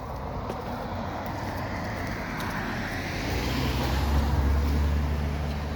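A car driving past, its engine and tyre noise growing louder as it approaches and loudest about four seconds in.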